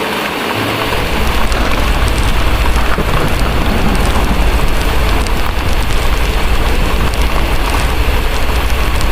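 Heavy rain pouring steadily, with a deep, low thunder rumble that rolls in about a second in and carries on underneath.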